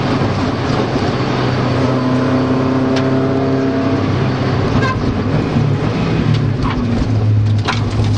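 Mazda Miata rally car's engine heard from inside the cabin, running at a steady pitch under way with road and tyre noise. A few sharp knocks come through, one about 3 seconds in, one about 5 seconds in and one near the end.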